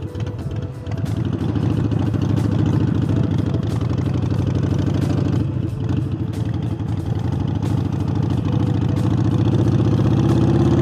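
Harley-Davidson Forty-Eight's air-cooled V-twin running under way, fitted with a new air intake. The engine note dips briefly about five and a half seconds in, then rises steadily as the bike accelerates.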